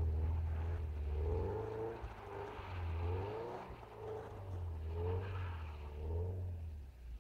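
Subaru Legacy B4 RSK's turbocharged flat-four boxer engine revving up and dropping back in about five surges while the car slides around on snow. It grows fainter near the end as the car moves off.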